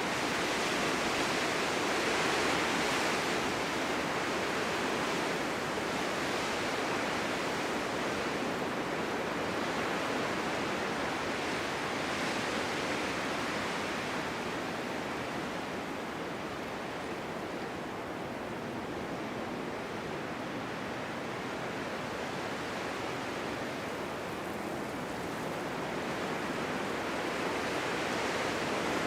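Snowstorm wind blowing steadily, a dense rushing hiss that swells and eases gently without gusting hard.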